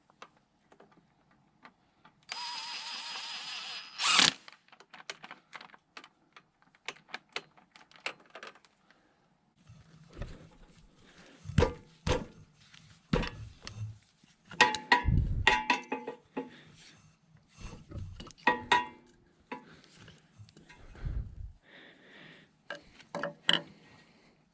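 Hand-tool work on steel fittings: a whirr lasting about two seconds a couple of seconds in, ending in a sharp clank, then irregular clicks, knocks and metallic clanks of a socket and wrench on bolts.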